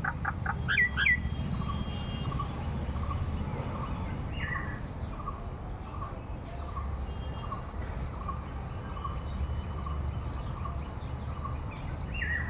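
Birds calling outdoors: a short note repeated steadily about twice a second, with an occasional downward-sliding call, over a steady high hiss.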